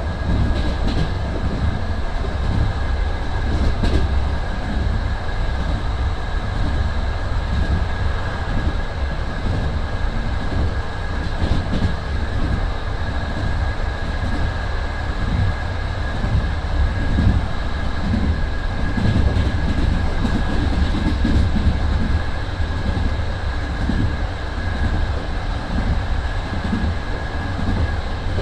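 A moving passenger train heard from inside an old compartment sleeping car: a steady low rumble of the running gear, a thin steady high tone over it, and now and then a knock of the wheels on the track.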